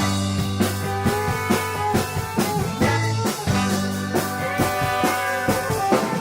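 A live band rehearsing an instrumental passage without vocals: a drum kit keeping a steady beat under held bass notes, with guitar and other pitched instruments playing over it.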